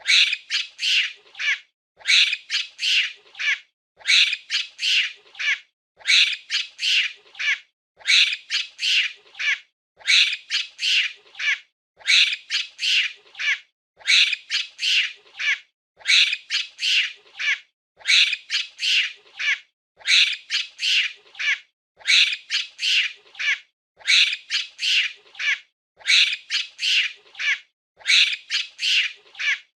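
Monkey calls: a burst of rapid, high-pitched chattering squeals, the same burst repeating every two seconds with a short gap between.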